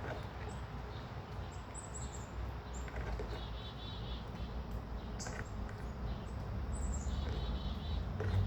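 Small songbirds chirping: many short, high chirps and a couple of brief rapid trills, over a steady low background rumble.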